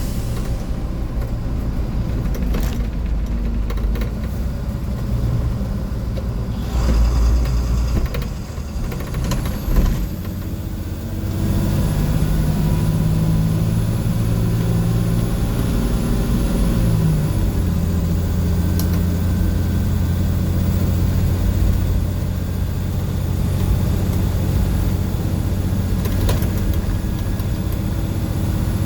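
Blue Bird school bus's International DT466E diesel engine running, heard from on board. It comes under heavier load about twelve seconds in, and its pitch steps down near seventeen seconds, like the Allison MD3060 automatic shifting up. Two loud knocks come about seven and ten seconds in.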